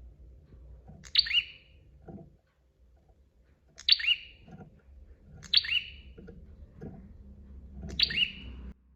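Prinia (prenjak) calling: four short, sharp chirping phrases, each a high note dropping into curving notes, spaced about two seconds apart.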